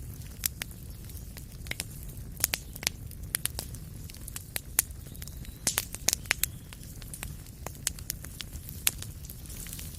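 Wood fire crackling in a fireplace: irregular sharp pops and snaps over a steady low rumble of flame, with a quick cluster of pops a little past the middle.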